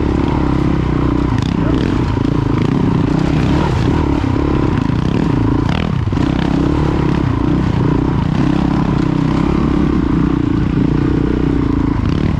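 Honda CRF450 dual-sport motorcycle's single-cylinder four-stroke engine running steadily under way, with some clatter and scraping over it.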